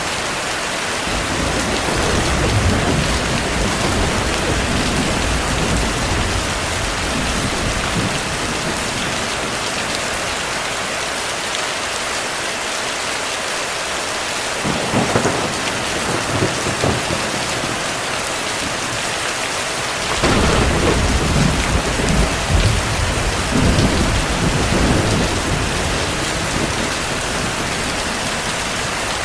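Heavy rain falling steadily, with thunder rolling under it: low rumbles in the first few seconds, a sharper clap about halfway through, and a longer, louder roll of thunder from about two-thirds of the way in.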